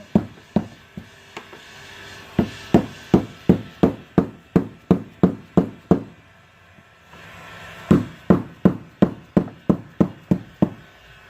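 Rubber mallet striking a screwdriver to drive it under a glued-in jet-ski pump shoe, loosening it after the glue has been softened with heat. There are a few scattered blows, then two runs of steady tapping at about two or three blows a second, with a short pause between them.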